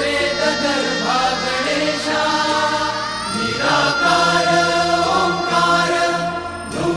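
Devotional Sanskrit chant to Ganesha sung over music, with long held, gliding vocal notes above a steady low drone.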